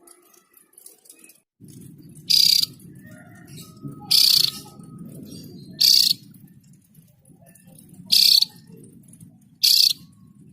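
Javan grey-throated white-eye (opior jawa) giving five loud, harsh, short calls, one every one and a half to two seconds. A low steady hum runs beneath them from about one and a half seconds in.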